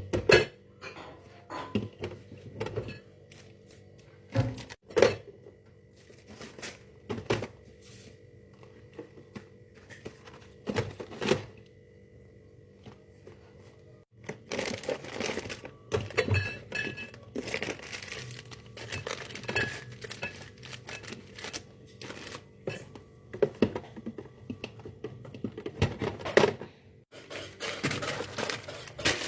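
Plastic crinkling and short knocks of items being handled, in irregular bursts, with a few abrupt cuts.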